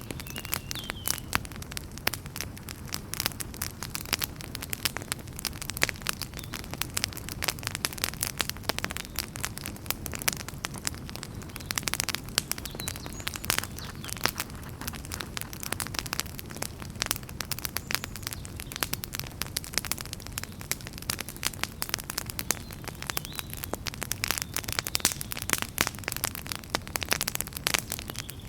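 Wood fire burning in a fireplace, crackling with dense, irregular pops and snaps over a steady low rumble of flame.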